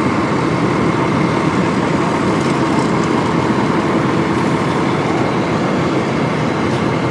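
Steady vehicle noise: a continuous engine and road rumble with no breaks.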